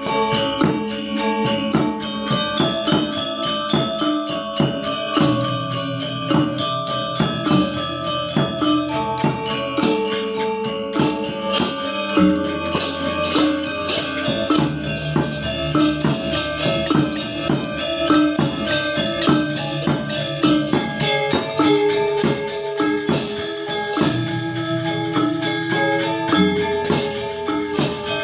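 Balinese gamelan gong ensemble playing: bronze metallophones in dense, rapid struck patterns with jingling cymbals and drum strokes over low ringing tones that change every few seconds.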